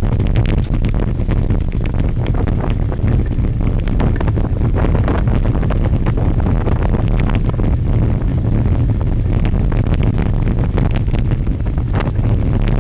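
Heavy wind buffeting the microphone, with frequent short knocks and rattles from a cyclocross bike ridden over rough ground at race pace.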